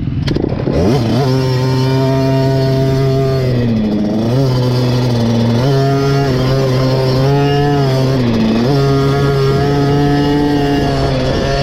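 KTM SX 50's small two-stroke single-cylinder engine revving up, then running at high revs with the throttle held open. The revs drop briefly twice, about four seconds in and again near eight and a half seconds, and climb straight back.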